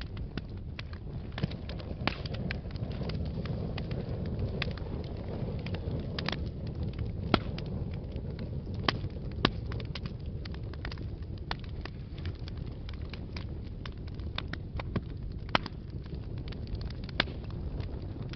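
Wood fire burning in a fireplace: a steady low rumble of flames with irregular sharp crackles and pops throughout, a few louder snaps among them.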